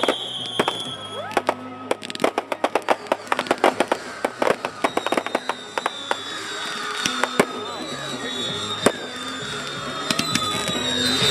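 Fireworks display: rapid crackling pops throughout, with a falling whistle right at the start and steady whistles later, growing louder near the end.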